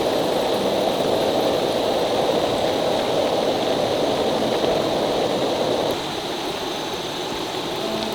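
Steady rushing water, a constant hiss without distinct drops or splashes, which eases slightly about six seconds in.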